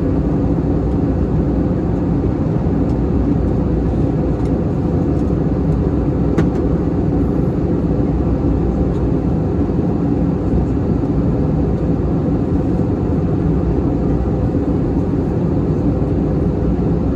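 Steady cabin noise of an Airbus A321 in flight: the roar of engines and airflow, with a faint hum running through it and one faint tick about six seconds in.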